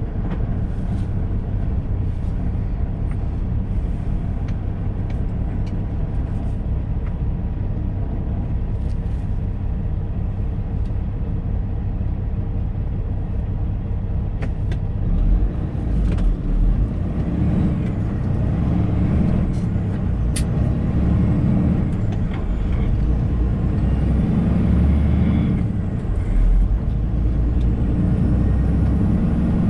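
Semi-truck's diesel engine and road noise heard from inside the cab while driving, a steady low rumble; from about halfway the engine note pulses more strongly, with a few light clicks.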